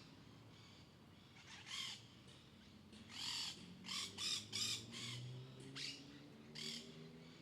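A bird giving a series of short, rough calls: one, then a quick run of four in the middle, then two more spaced out near the end.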